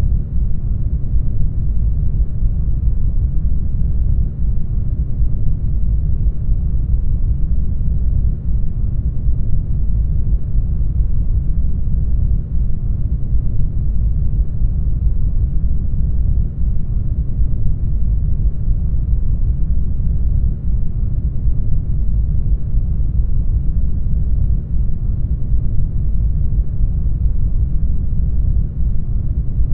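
Brown noise: a steady, deep rushing rumble, heaviest in the low end and dull in the highs, with no change throughout.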